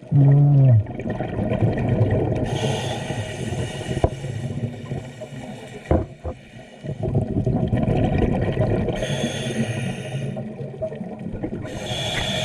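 A scuba diver breathing through a regulator underwater: exhaled bubbles gurgle out in three bursts, with regulator hiss and water noise between. A short muffled vocal sound through the mouthpiece at the very start, and a couple of sharp clicks midway.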